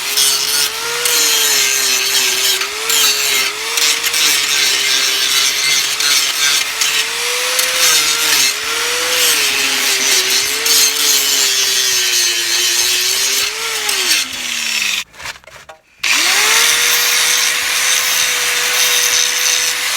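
Electric grinder grinding old brazing off a Massey Ferguson 50 tractor's exhaust pipe, its motor pitch dipping and rising as it is pressed into the metal. About fourteen seconds in it is switched off and winds down, then after a second it starts again and spins up to a steady whine.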